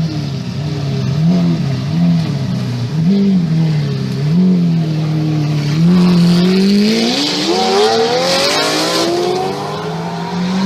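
Lamborghini supercar engine being revved while stationary: a string of short throttle blips, then one longer rev that climbs for about three seconds before dropping back toward idle.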